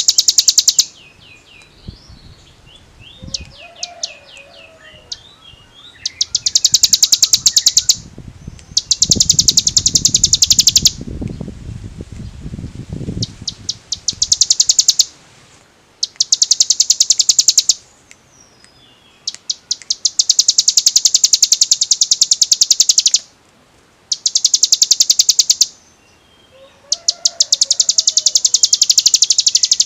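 Ciblek gunung (a mountain prinia) singing in its rapid, drill-like rattling trill, the 'ngebren' song: high, fast pulsed bursts of one to three seconds each, repeated about eight times with brief chirps in the gaps. A low rumble runs under the song about a third of the way through.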